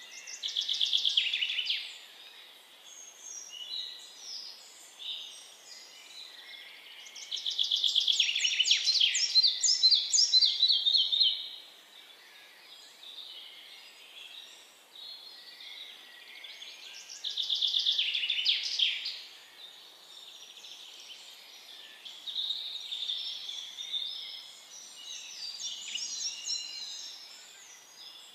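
Red-breasted flycatcher singing: three loud phrases of quick repeated high notes several seconds apart, the longest one running down in pitch toward its end, with softer chirps between them.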